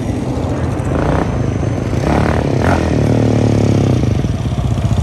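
Off-road motorbike or quad engine running loud and steady under throttle.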